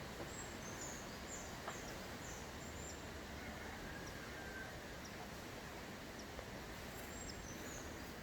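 Outdoor nature ambience: a steady background hiss with brief, faint high-pitched bird chirps now and then, and a few soft clicks.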